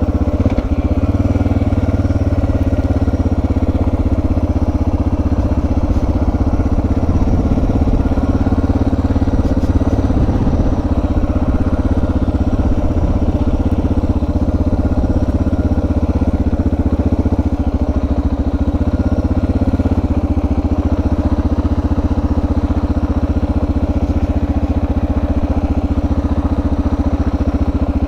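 Suzuki DR650's single-cylinder four-stroke engine running steadily at low speed.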